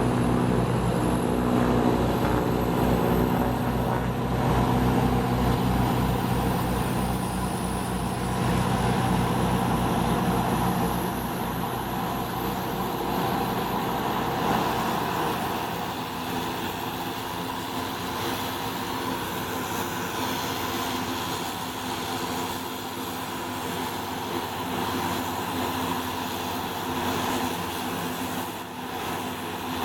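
Cessna Conquest II's twin Garrett TPE331 turboprop engines running on the ground, with a low propeller throb and a faint high turbine whine that rises in pitch over the first several seconds. The throb and the engine tones fade out about halfway, leaving a steadier rushing engine sound at a slightly lower level.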